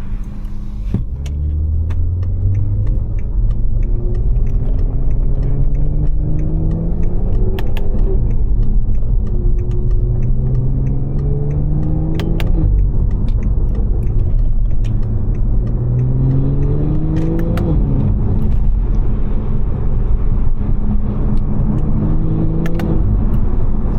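Stage 2 tuned BMW 540i's B58 turbocharged inline-six accelerating hard through the gears: the engine note rises for a few seconds and then drops at each upshift, about four times in a row.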